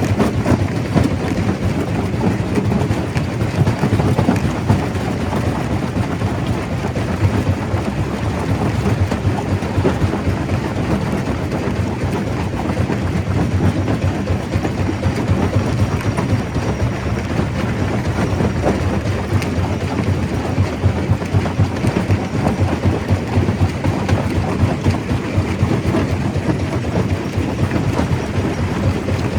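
Stone crusher running under load, with a loud, steady rumble and a dense rattle of many small knocks as rock is crushed.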